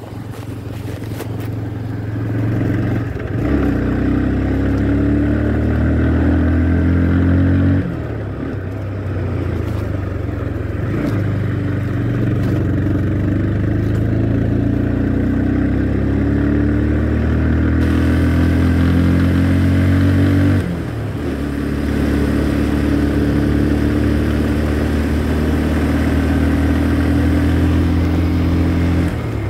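Motorcycle engine under way, its pitch climbing steadily as it accelerates, then dropping briefly about eight seconds in and again about twenty seconds in, as at gear changes.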